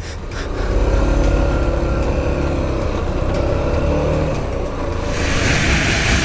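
Motor vehicle engine running steadily with road noise. About five seconds in, a strong rushing hiss sets in, like wind.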